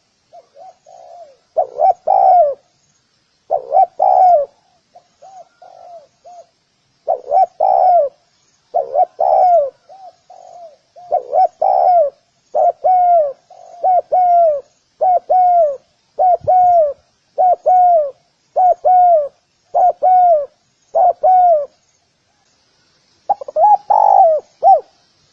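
Spotted dove cooing over and over: a string of low, two-part coos about every second and a half, with softer short coos between some of them, and a pause of about a second and a half near the end. Faint high chirps run along behind.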